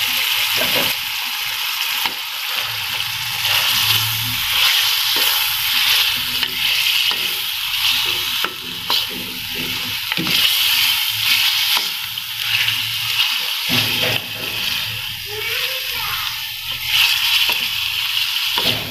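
Raw chicken pieces sizzling in hot ghee and onion-tomato masala as a wooden spatula stirs them, with irregular scrapes and knocks against the pan. This is the start of the bhuna, frying the chicken to cook off its rawness.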